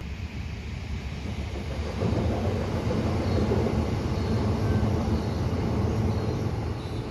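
Train passing over a rail bridge: a steady low rumble of wheels and running gear that grows louder about two seconds in.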